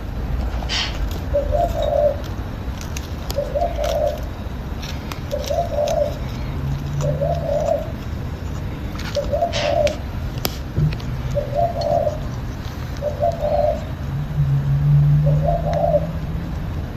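A bird cooing in a steady rhythm, about one short coo every second, with a few sharp clicks and snaps in between.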